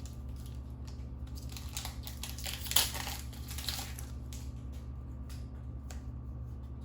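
Foil trading-card booster pack wrapper crinkling and being torn open, then the cards being handled. The loudest moment is a sharp snap about three seconds in, and a few light clicks follow as the rustling dies down.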